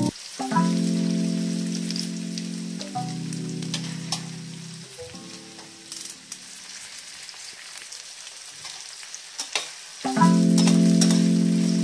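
Onion pieces sizzling in hot oil in a steel pan, with a metal spatula clicking and scraping against the pan as they are stirred. Background music of held chords runs over it, dropping away in the middle and coming back louder about ten seconds in.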